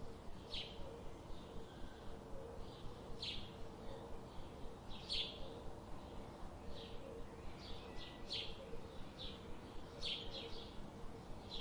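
Budgerigars chirping: short, separate high calls every second or so, over a steady background hiss and a faint low hum.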